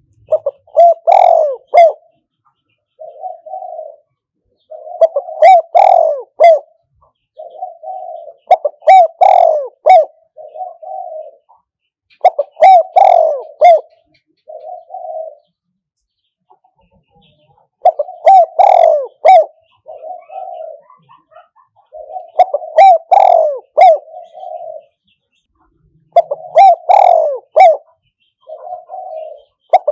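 Spotted dove (นกเขาใหญ่) cooing close by, a caged decoy bird giving its multi-note call phrases about every three to four seconds, louder phrases alternating with softer short coos.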